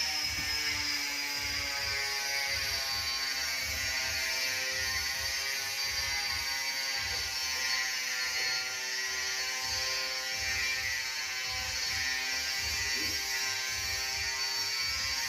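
A motor running steadily with a buzzing hum and a high whine that slowly falls in pitch.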